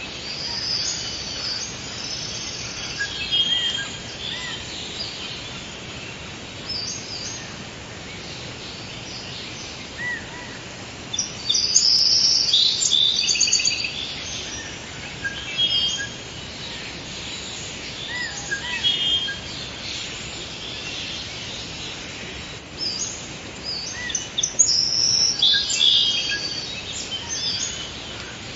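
Forest birdsong: several birds chirping and trilling over a steady background hiss, with the busiest bursts of song about halfway through and again near the end.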